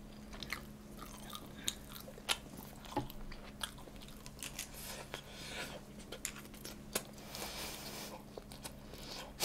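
A person chewing food close to the microphone, with irregular soft mouth clicks.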